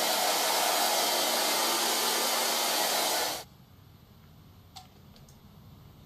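Hand-held hair dryer blowing with a steady rush and faint hum, switched off about three and a half seconds in, leaving a few faint clicks.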